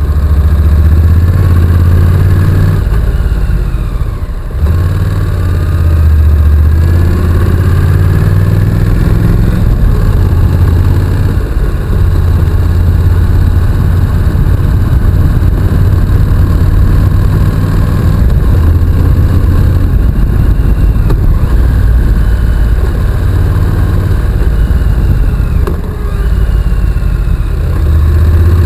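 Honda NC750X's parallel-twin engine running while the motorcycle is ridden, the engine note rising and falling with the throttle; the sound dips briefly about four seconds in and again near the end.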